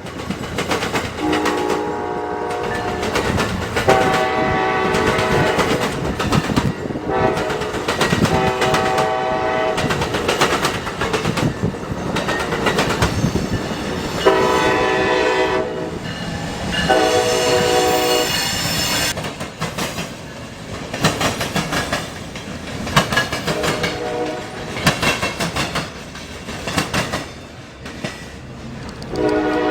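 Train horn sounding a series of blasts, each lasting one to a few seconds, as the train passes. The wheels click steadily over the rail joints throughout.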